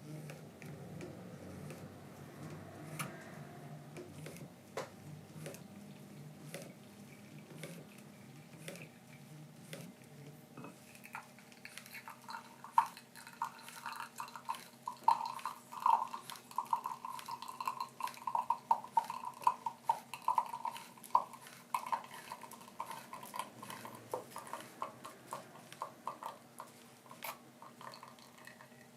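Small metal and glass coffee-making gear being handled: a low rumbling for about ten seconds, then a long run of quick clicks and clinks with a ringing note.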